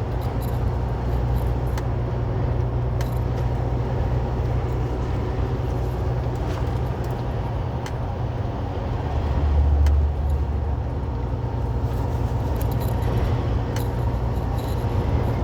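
Semi truck running down the highway, heard from inside the cab: a steady low engine and road drone with a brief louder low swell about ten seconds in, and a few light clicks.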